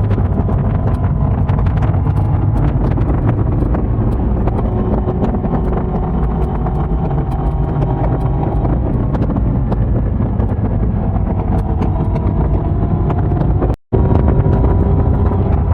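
Yamaha YZF-R1 crossplane inline-four running steadily under way, its exhaust note drifting gently up and down with throttle, with wind noise on the microphone. The sound cuts out completely for a split second near the end.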